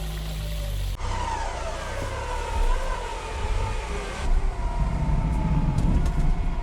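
Off-road SUV running under load, with a whine that drops in pitch and then holds steady over a low rumble. The sound changes abruptly about one second in and again about four seconds in.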